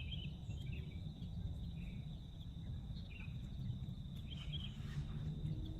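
Forest ambience: a steady high-pitched insect drone, with short bird chirps four or five times over a low steady rumble.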